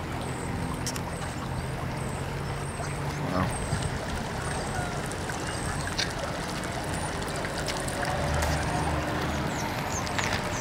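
Steady rush of the flooded Passaic River, with a vehicle engine running under it and small birds chirping now and then.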